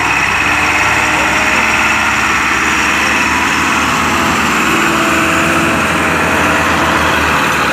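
Tractor diesel engines running steadily under load while pulling a stuck truck out.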